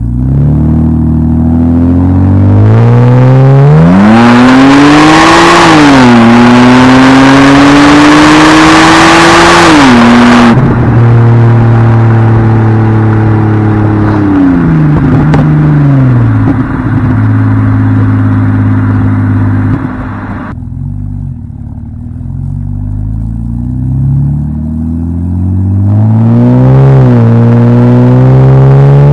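Straight-six exhaust of a BMW 328i with the muffler deleted, accelerating hard with revs climbing and falling through gear changes. It is loudest and raspiest during a pull in the first ten seconds, eases off to a quieter stretch in the twenties, then climbs again near the end.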